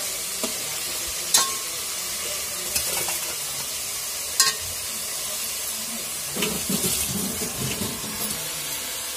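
Onions, ginger-garlic paste and whole spices sizzling steadily in hot oil in a metal pot. A slotted metal spatula stirs them, clinking sharply against the pot twice and scraping around it in the last few seconds.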